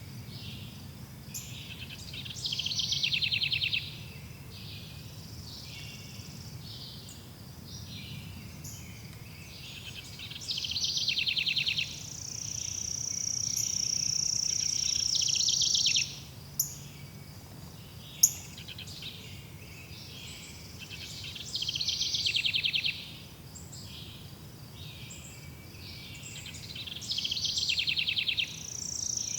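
Forest birdsong: a bird sings a loud, rapid high trill four times, several seconds apart, over other faint chirps. A high, steady buzzing note swells for about four seconds in the middle and cuts off suddenly, and a low steady hum of background noise runs underneath.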